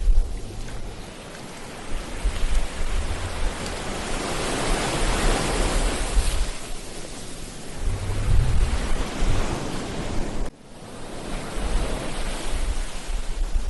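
Ocean surf: a wave builds to a broad rushing hiss a few seconds in and washes out, with wind buffeting the microphone in low rumbling gusts. The sound drops out abruptly for a moment about ten and a half seconds in, then builds again.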